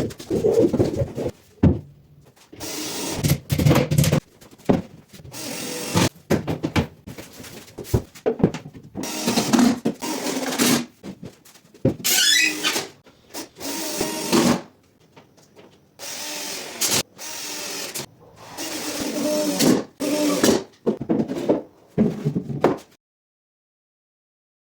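Woodworking during cabinet construction: short runs of a power tool, likely a drill or driver, mixed with knocks and clatter of wood, in choppy, stop-start stretches. About halfway there is one rising whine, and the sound cuts off abruptly into silence near the end.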